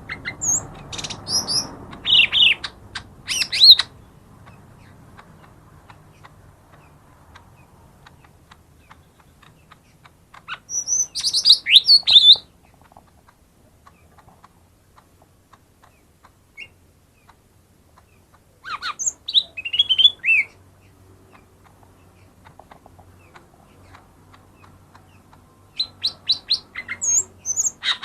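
Cucak ijo mini, a small green leafbird, singing in short bursts of fast whistled notes and chirps: four phrases about eight seconds apart, with quiet between them.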